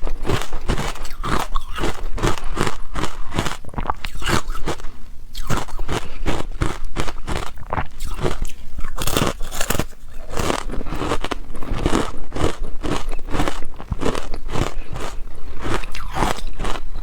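Ice being bitten and chewed close to the microphone: a steady run of hard, crackly crunches, several a second.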